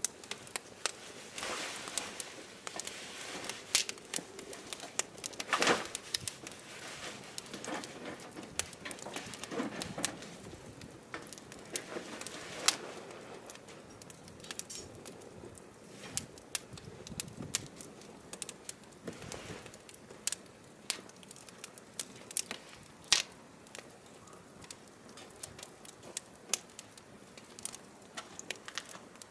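Firewood burning, crackling with irregular sharp pops, a few of them much louder than the rest.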